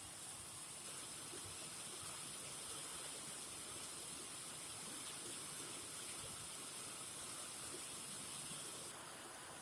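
Heavy rain falling, a steady hiss of rain noise; the high part of the hiss drops off near the end.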